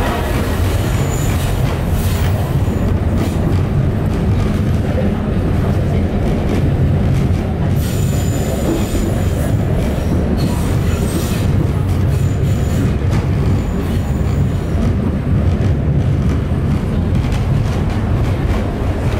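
Alishan Forest Railway narrow-gauge train running, heard from inside a passenger car: a steady, loud low rumble. Brief high-pitched wheel squeals come a few times, clearest about eight seconds in.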